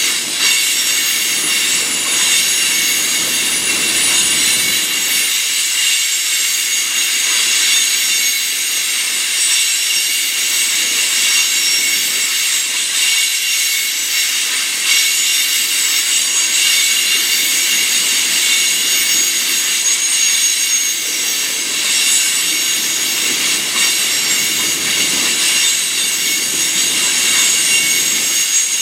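Freight train cars rolling past with their wheels squealing: several steady high-pitched tones held over the rolling noise of the wheels.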